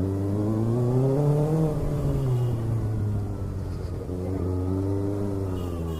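Kawasaki ZX6R motorcycle engine running under way. The note rises as it accelerates for about a second and a half, then eases off, and rises and falls again near the end.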